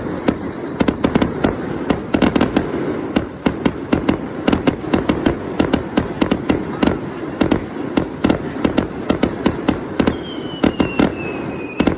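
Fireworks crackling and popping in rapid, irregular bangs, several a second, over a steady crackle. A faint falling whistle starts near the end.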